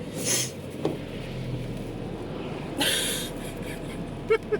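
Steady road noise of a moving minivan heard from inside the cabin, with two brief hissing swishes about two and a half seconds apart.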